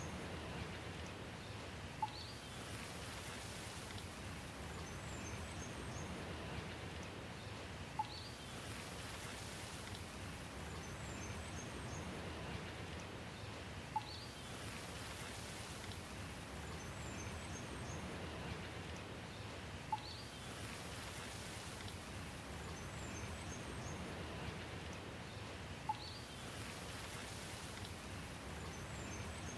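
Steady rain hiss with faint bird chirps. A sharp tick like a single drip, together with the chirps, comes back exactly every six seconds, as in a looped recording.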